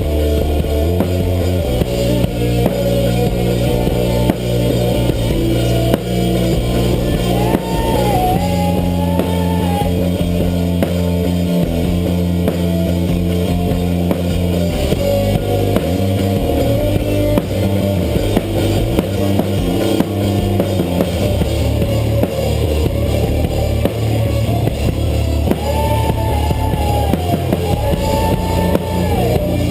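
Rock band playing an instrumental passage: drum kit with bass drum, held low bass notes, and guitar. A high melodic line bends up and down in pitch about seven seconds in and again near the end.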